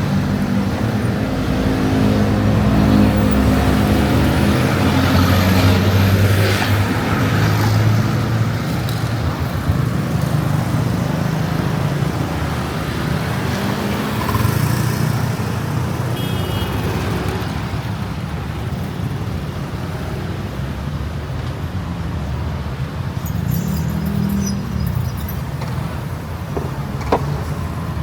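Street traffic: vehicle engines running close by over steady road noise. It is loudest in the first several seconds, eases off, and picks up again near the end.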